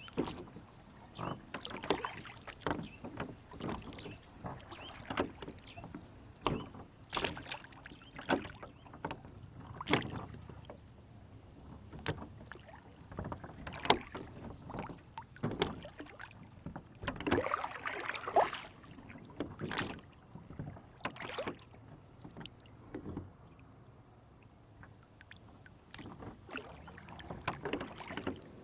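Water lapping and slapping against a small rowboat's hull, with irregular small splashes and knocks. The splashing is busiest about seventeen seconds in and quieter a few seconds later.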